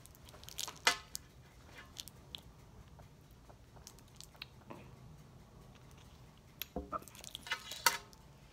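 Someone chewing a small chewy candy ball, with scattered short clicks and crunches that are thickest about a second in and near the end.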